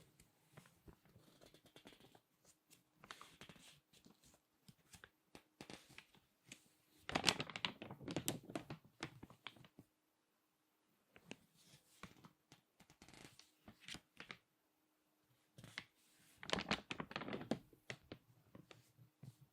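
Crinkly magazine pages being handled and squeezed: scattered soft paper crackles and ticks, with two louder, denser bursts of crinkling, one around seven seconds in and one near the end.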